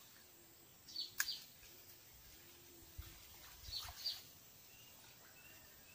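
A bird repeating a short, high double chirp, twice, about three seconds apart, over a faint outdoor background, with one sharp click about a second in.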